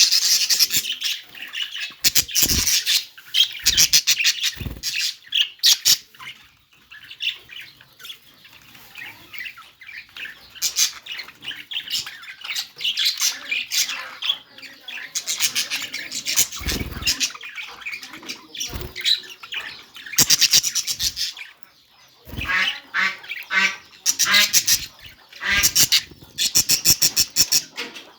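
Budgerigar chattering and warbling with rapid clicks and harsh squawks, in bursts with short pauses. A few brief low thumps are heard among the calls.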